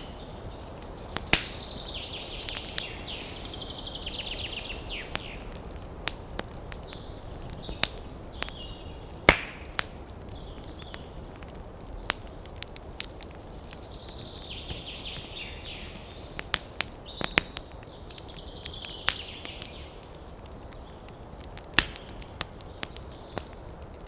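Wood campfire crackling, with sharp irregular pops over a steady low hiss; the loudest pop comes about nine seconds in. Twice a rapid, high-pitched rattling trill lasts a few seconds.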